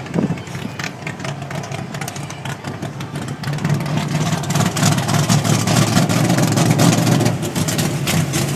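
Race car engine idling, growing louder about halfway through.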